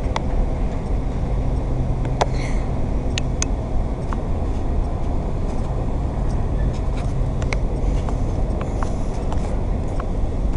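A train running through the station: a steady low rumble with scattered sharp clicks.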